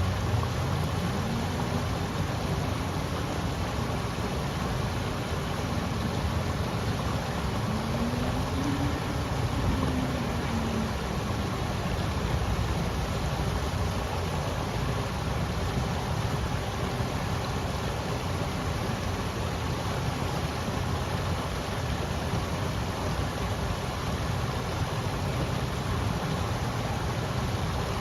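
River water rushing, a steady even hiss. A faint low hum rises and falls twice in the first ten seconds or so.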